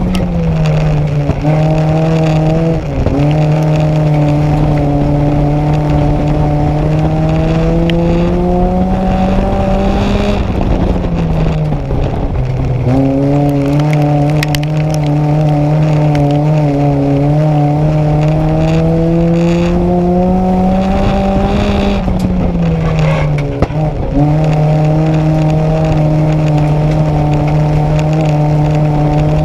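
Nissan Micra race car's engine heard from inside the cabin, held under hard throttle. Its pitch climbs slowly for several seconds, then drops briefly about three times as the driver lifts off or changes gear for the corners.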